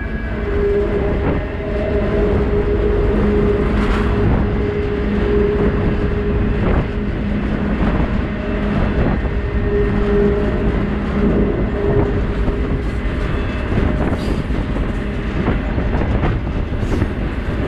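Freight train car rolling along the rails, heard from its deck: a steady rumble of wheels on track with scattered sharp clanks, and a pitched hum that comes and goes through the first two-thirds.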